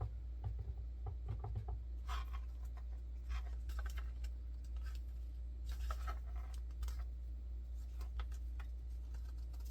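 Handling noise from paper instructions and small parts: scattered light rustles, scrapes and clicks, over a steady low hum.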